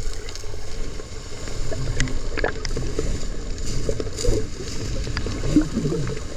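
Sea water sloshing and gurgling around a camera held in the water, over a steady low rumble, with a few short bubbly gurgles.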